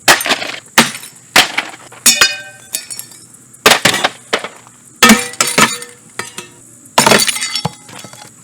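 A Mainstays hugger ceiling fan being smashed: about seven hard blows at irregular intervals, with glass breaking and clinking and short metallic ringing after some of the hits.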